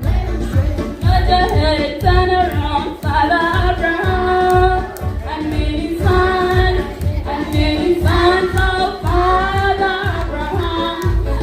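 A group of voices singing together over a steady beat.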